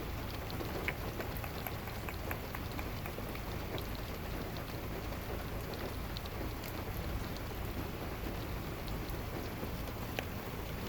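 Heavy rain pouring steadily, heard from inside a car, with scattered sharp ticks of individual drops.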